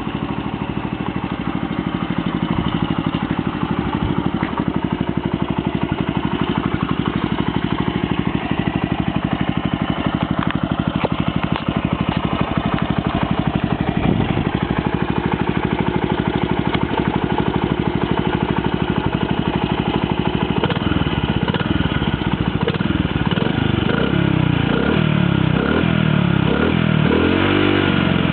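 Honda CD50 Benly's small single-cylinder four-stroke engine running through a Cabton-style muffler. It idles steadily at first, then about two-thirds of the way in it is revved in repeated throttle blips, the pitch rising and falling each time.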